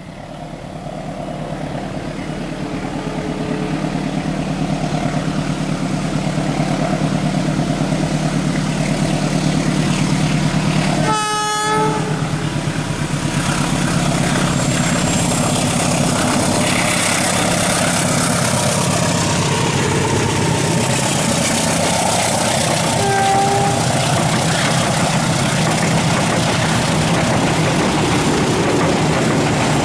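Diesel-hauled Indonesian passenger train running past, its engine drone and wheel noise building over the first few seconds and then holding steady. A short horn blast sounds about 11 seconds in, and a briefer tone about 23 seconds in.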